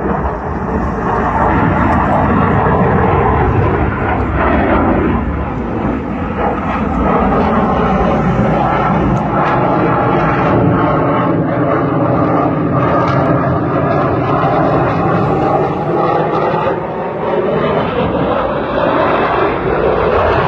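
Jet engine of an F-16 fighter roaring continuously as the aircraft flies its display manoeuvres, the pitch of the roar slowly shifting as it moves through the sky.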